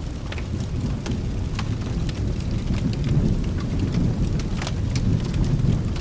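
Low rolling thunder rumble swelling about two seconds in, over steady rain, with scattered sharp crackles.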